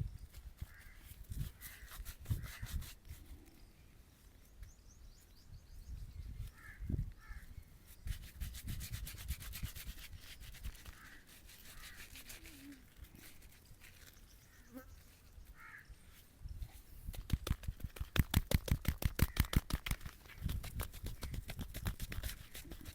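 Straight razor scraping through stubble in runs of quick, short strokes, with a fast, loudest run about seventeen seconds in.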